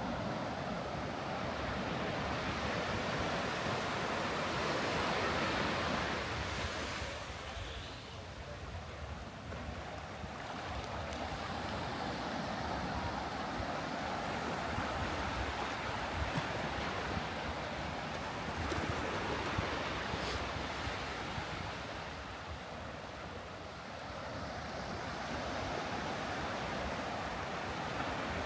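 Sea surf washing onto a sandy beach: a steady hiss of breaking waves that swells and eases, with lulls about eight seconds in and again near the end.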